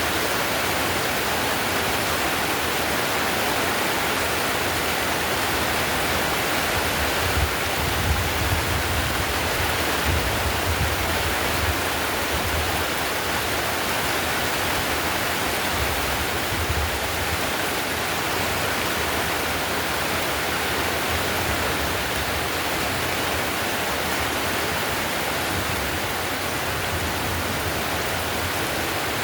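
Heavy rain falling on a clay-tiled roof: a dense, steady hiss of drops, with some low rumbling in the first half.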